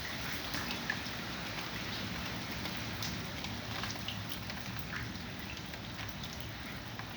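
Steady rain falling, with scattered drops landing close by in sharp ticks.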